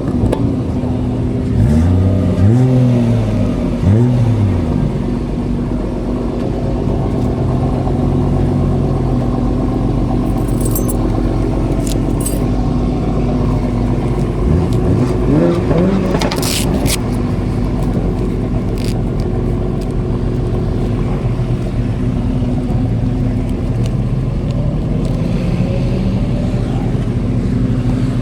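Kawasaki ZX6R's inline-four engine with an M4 exhaust idling steadily, blipped a few times: the revs rise and fall about two and four seconds in and again around fifteen seconds.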